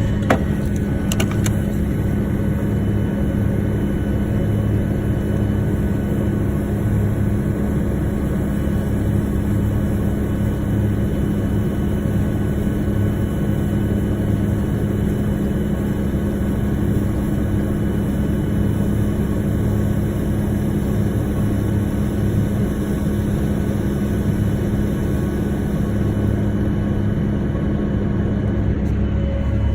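Engine of harvest-time farm machinery running steadily: a constant low hum with a slightly pulsing throb beneath it.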